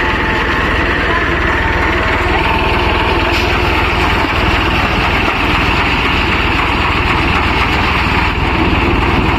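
Massey Ferguson tractor's diesel engine running steadily while driving a thresher, the engine and threshing machinery making a loud, continuous mechanical din.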